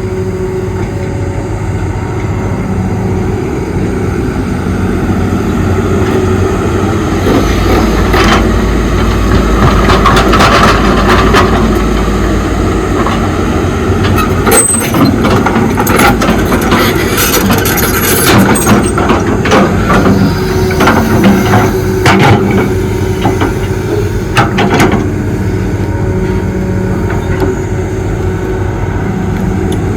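Excavator's diesel engine running steadily under load, with repeated sharp clanks and knocks of the digging work, thickest through the middle of the stretch.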